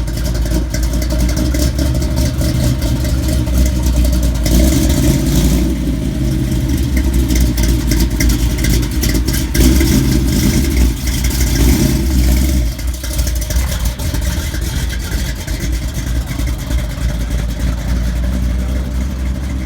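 Car engine running close by, revved up twice, the second time around ten seconds in, then settling back.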